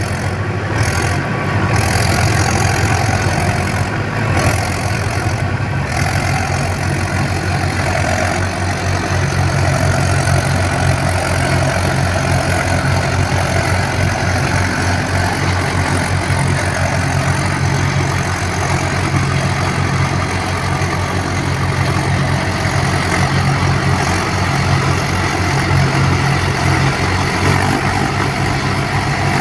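Mahindra tractor's diesel engine running steadily.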